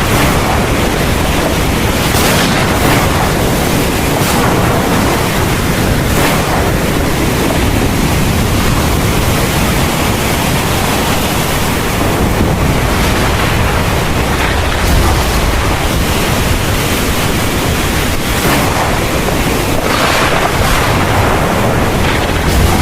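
Heavy thunderstorm rain pouring steadily, with a continuous low rumble beneath and a few brief surges in the downpour.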